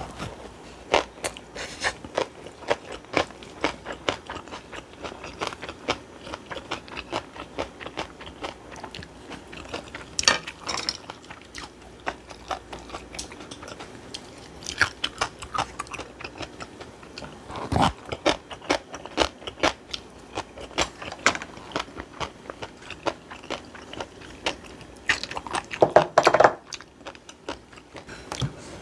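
Close-miked eating: wet chewing and crunching of bibimbap, a dense run of small clicks and crackles with a few louder knocks.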